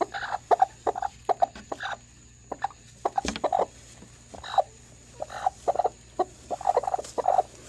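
Hens clucking: a run of short, separate clucks, one after another at an irregular pace.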